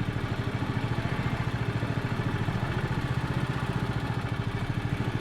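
Small engine running steadily at an even, rapid putter.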